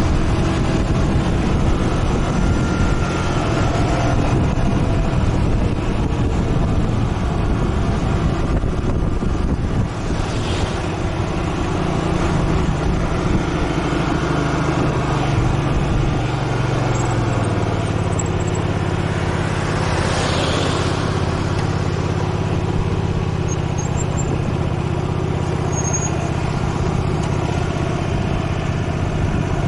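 Motorcycle engine running while riding. About two-thirds of the way through, the engine note drops, then holds steady at the lower pitch.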